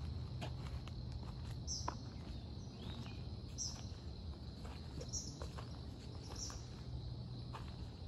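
A bird giving short, high, slightly falling calls about every one to two seconds, over a steady high insect drone, with footsteps crunching on a wood-chip trail.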